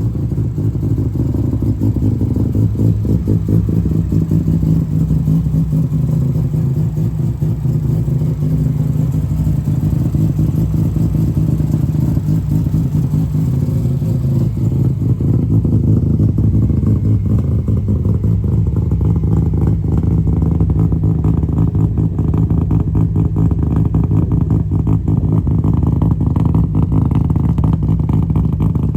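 Car engine idling roughly: a steady low running note broken by uneven pulses and ticks, the sign of a rough idle.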